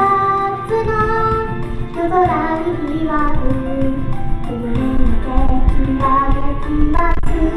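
A female idol singer singing live over a pop backing track, heard through an outdoor PA. Wind buffets the microphone with a low rumble that gets heavier about five seconds in.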